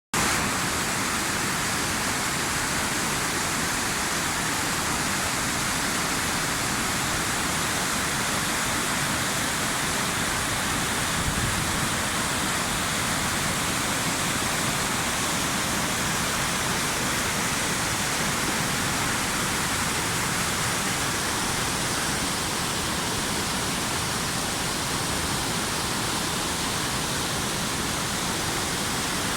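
Waterfall: the steady, unbroken rush of water falling down a cascade.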